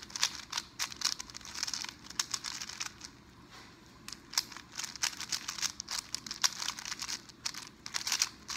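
Plastic speedcube being turned rapidly, its layers clicking and clattering in quick runs, with a brief lull a little past the middle. The cube is being broken in just after a drop of Maru lube was put inside.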